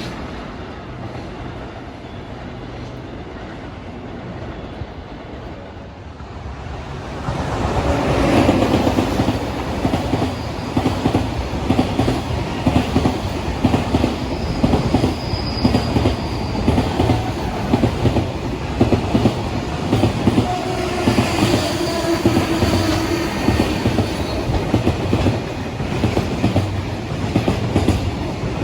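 A train passing close by on the Tokaido Main Line. A low rumble builds until, about seven seconds in, the train arrives and the sound jumps, and its wheels clatter over the rail joints in a steady, repeated rhythm until the end.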